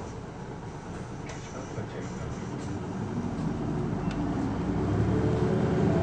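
A PKG-LV234L2 Isuzu Erga city bus's diesel engine running. From about halfway it grows steadily louder and rises a little in pitch as the bus accelerates.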